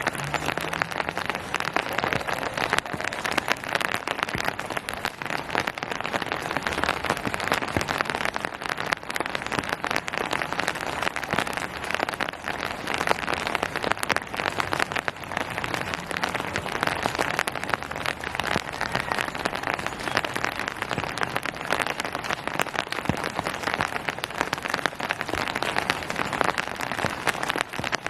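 Steady rain falling on hard surfaces and leaves, an even hiss dense with fine drop ticks.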